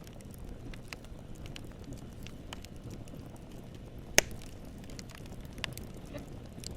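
Campfire burning: a steady low rumble of flames with irregular crackles of wood, and one loud pop about four seconds in.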